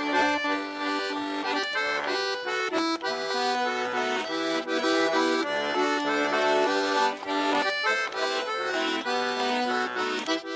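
Accordion playing an instrumental introduction to a Russian folk song: sustained chords with quickly changing melody notes.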